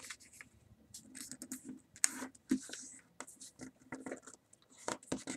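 A sheet of paper rustling and scratching as it is folded over and creased by hand, in a run of short irregular strokes.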